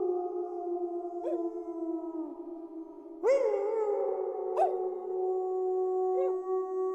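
Several wolves howling together in a chorus, their long held howls overlapping at different pitches. A louder howl breaks in with a sharp upward swoop about three seconds in, and short rising yips are heard now and then.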